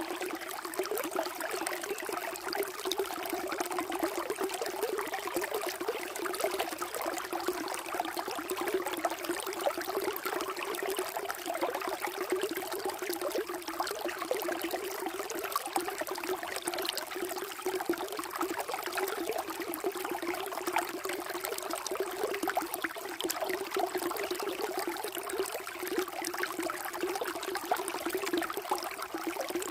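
Water running steadily over rocks, a continuous splashing and trickling with no change.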